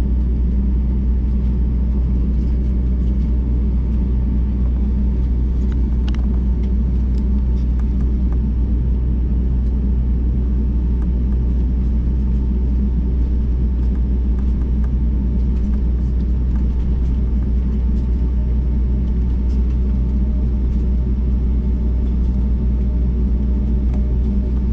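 Steady low rumble of a jet airliner heard from inside the passenger cabin: engine drone and airflow with a few faint steady tones over it, not changing in pitch or loudness.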